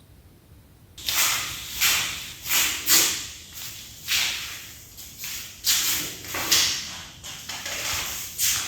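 Jelly candy being forced through a meat grinder, starting about a second in as a series of rough, hissing, squishing swells about every half to one second.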